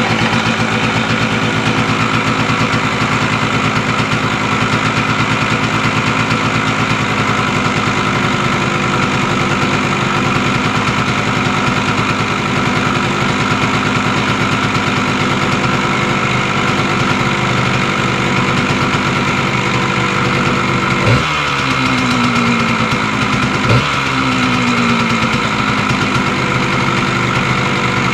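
1974 Yamaha DT100's single-cylinder two-stroke engine running at a steady idle after being started, with two short throttle blips near the end whose revs fall back to idle.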